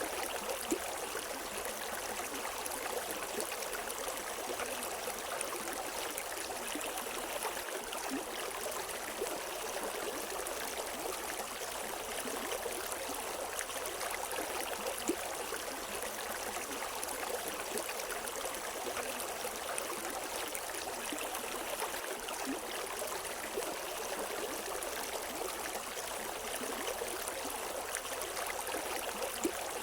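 River water flowing and splashing steadily, an even rushing with small bright splashes scattered through it and no birds.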